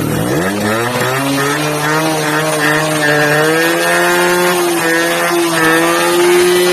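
Old TVS motorcycle engine catching on a cold start: its speed rises over about the first second, then it runs steadily.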